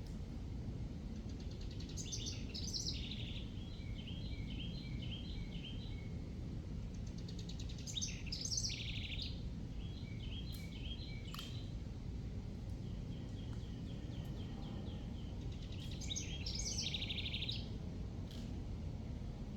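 A songbird singing four separate phrases, each a run of quick high notes ending in a trill, over a steady low rumble of outdoor background noise. A single sharp click comes about eleven seconds in.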